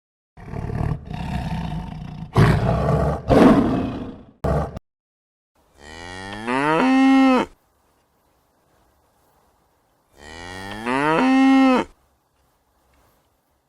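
A deep, rough roar for the first few seconds, then a cow mooing twice, about four seconds apart. Each moo rises in pitch and then holds before stopping.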